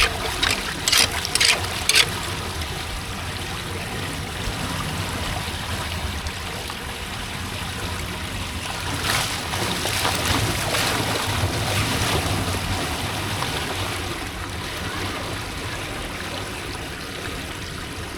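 Floodwater running and trickling steadily, with a few sharp impacts in the first two seconds.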